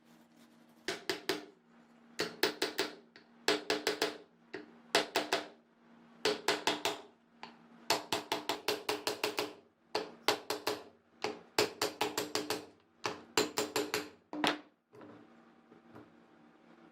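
Repeated sharp tapping in about a dozen quick bursts of several hits each, like a small hammer working a part, stopping near the end.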